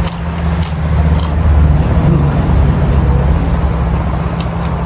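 Crisp crunching of a fresh lettuce leaf being chewed, three sharp crunches in the first second and a half, over a steady low motor drone.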